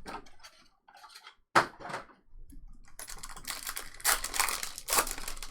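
Rapid light clicking and clattering, like typing on a keyboard, with a single sharp knock about a second and a half in and the clicking growing dense for the last couple of seconds.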